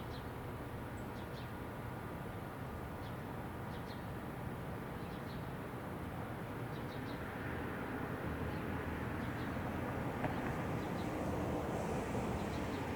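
Outdoor ambience: a steady rumble of distant traffic that swells in the second half, with short, high bird chirps coming again and again throughout.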